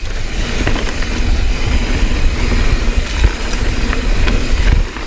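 An Evil Following MB 29er mountain bike being ridden on a dirt trail: wind rushing over the microphone and tyres rolling over the ground make a steady rumble, with scattered clicks and knocks from the bike.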